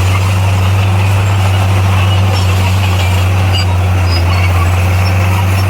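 Bulldozer's diesel engine running steadily with a constant low drone, unchanging in pitch.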